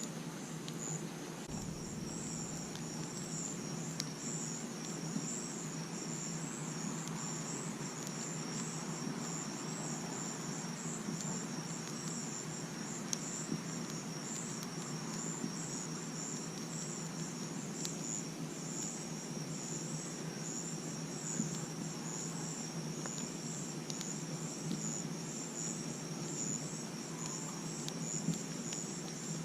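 Crickets chirping in a continuous high, pulsing chorus at night, with a few faint crackles and pops from a campfire.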